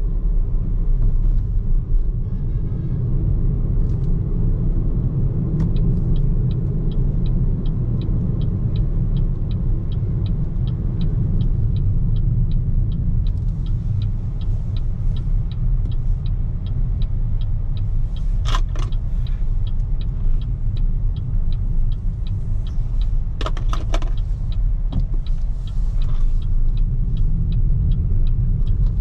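Steady low road and tyre rumble from a BYD Seagull electric car on the move, with no engine note. Through most of it there is a regular light ticking, a little under three ticks a second. Two short, sharper sounds stand out, about two-thirds of the way in and again a few seconds later.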